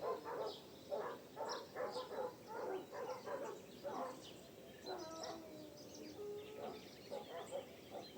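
Birds calling and singing at dawn, several at once: high, short chirps over lower, quickly repeated calls.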